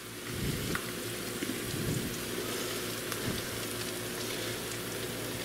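Shredded potatoes sizzling steadily in hot oil in a frying pan, with a few faint light knocks from a pepper shaker being shaken over them.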